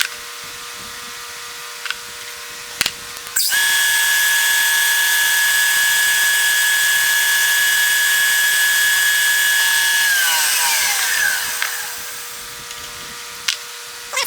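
Machine-tool spindle in high range starting with a steady whine a few seconds in, running for about six seconds, then winding down with falling pitch as it is switched off. A steady hum and a few light clicks sit underneath.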